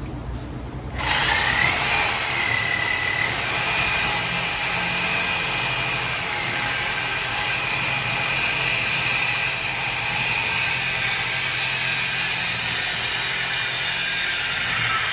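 A power cutting tool starts about a second in and runs steadily with a high whine, cutting through the exhaust piping to remove the resonators.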